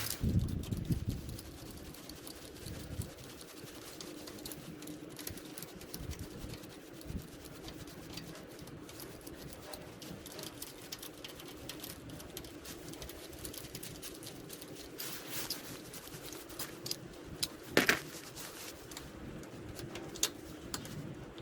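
Scattered light clicks and taps of hand tools and small metal parts being handled while working on a motorcycle engine's clutch cover, with a few knocks at the start and one sharper knock about 18 seconds in.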